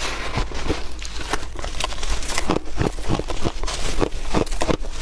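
Crunchy chunks of ice being bitten and chewed close to the microphone: rapid, irregular cracking crunches several times a second.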